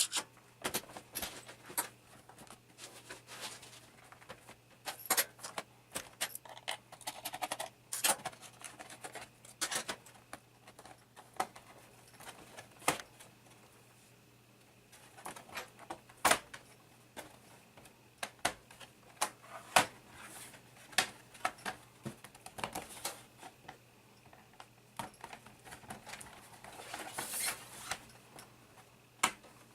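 Irregular clicks, taps and light rattles of a laptop being taken apart by hand: plastic panels, screws and small parts being handled and set down. A faint steady low hum runs underneath, and near the end there is a longer scraping sound.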